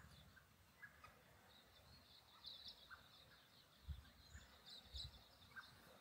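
Faint chirping and twittering of small birds, scattered high notes over a quiet background, with a couple of soft low bumps in the second half.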